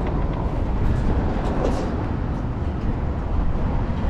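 Steady rumble of wind and road noise on the microphone of a camera riding along on a moving bicycle, mixed with city traffic.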